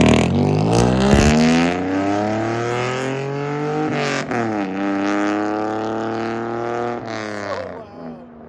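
Straight-piped true dual exhaust of a 2005 Mazda 6's 3.0 L V6 accelerating hard. The pitch climbs, drops once at an upshift about four seconds in and climbs again, then the sound fades as the car pulls away.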